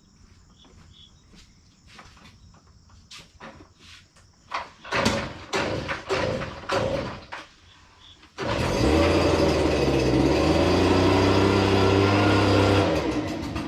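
A string of sharp clicks and knocks, then a mower's engine comes in suddenly and runs steadily for a few seconds before dropping away near the end.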